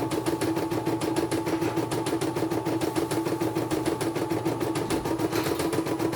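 Computerized embroidery machine stitching at speed, a fast, even rhythm of about ten strokes a second over a steady motor hum.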